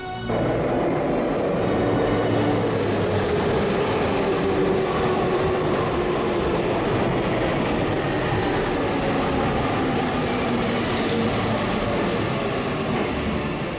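Electric commuter train running past on the rails: a steady, loud rush of wheel and running noise, with a faint motor tone that slides slightly lower. It cuts in abruptly just after the start.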